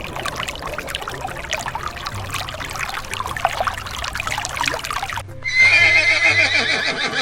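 A steady rustling, crackling background noise, then about five seconds in a horse whinnies loudly, a quavering call lasting about two seconds.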